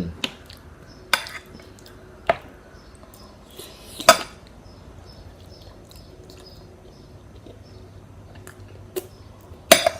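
Metal cutlery clinking against a plate while lasagna is cut and eaten: scattered sharp clinks, with a brief scrape about four seconds in.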